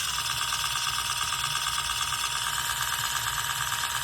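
Ridgid 4-mode impact driver spinning free with no load at its third speed, a steady motor whine with a fine rattle from the bit's wobbling collet.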